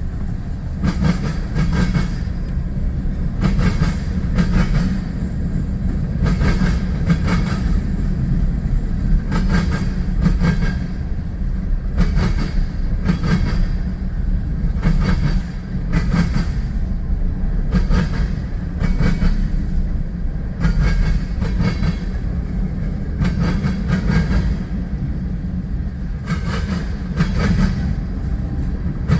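Freight train cars rolling slowly past on a CSX line, their wheels clicking over rail joints in repeated groups of clacks every second or so, over a steady low rumble.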